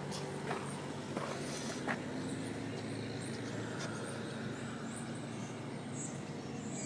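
A car engine running steadily at low revs, a low hum, with a few short clicks over it.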